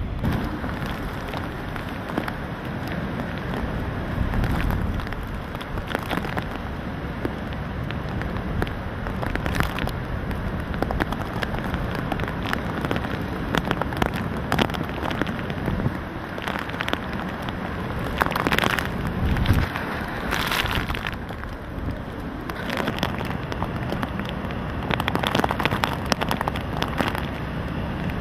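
Hurricane wind and driving rain, a dense rushing noise with gusts that buffet the microphone now and then.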